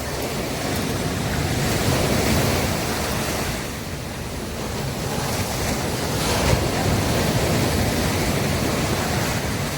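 Sea waves breaking and washing up on a beach, the surf swelling twice.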